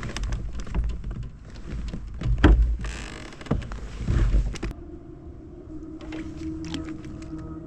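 Scattered knocks and clatter over a low wind rumble on the microphone. About two-thirds of the way in, these stop abruptly and a steady low hum with a few held tones begins.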